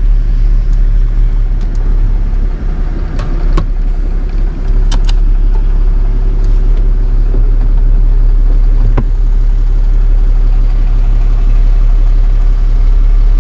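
A vehicle engine running steadily and close by, with no revving, growing louder about five seconds in, with a few sharp clicks over it.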